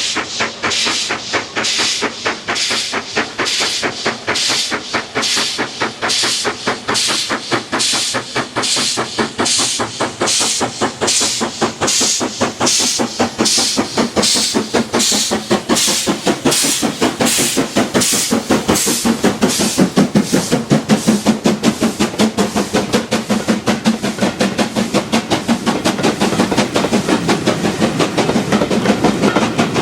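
Steam locomotive under way, its exhaust chuffing in regular beats about twice a second; in the second half the beats give way to a denser, lower rumble and clatter of a train rolling past.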